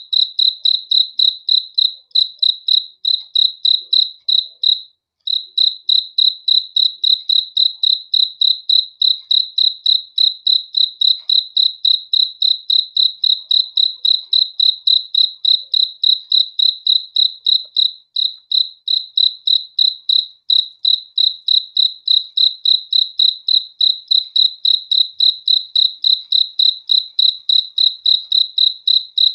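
A single cricket chirping steadily: one high, pure note repeated evenly at about three chirps a second, with a brief break about five seconds in.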